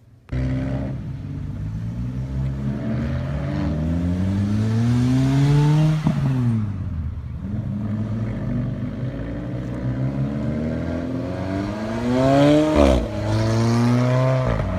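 Chevrolet Camaro V8 exhaust, loud, starting up about a third of a second in. The revs climb slowly for several seconds and drop about halfway, then hold steady before a quick sharp rev and fall near the end.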